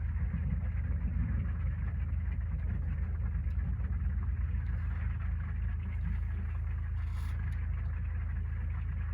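Storm wind and rain heard from inside a travel trailer: a steady low rumble with an even hiss above it.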